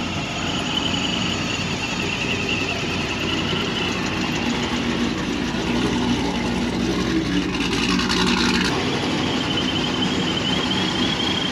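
Car engine running steadily, with a faint high whine over it; it cuts off abruptly at the end.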